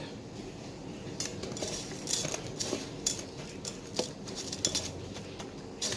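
Scattered light clinks and taps of dishes and utensils, with soft rustling in between.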